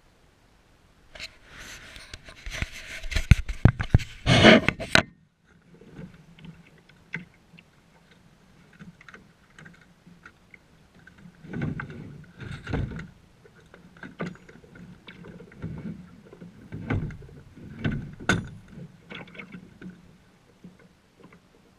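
Kayak paddling: paddle strokes in the water and knocks against the hull at an uneven pace. A loud rustling, clattering noise in the first few seconds cuts off suddenly.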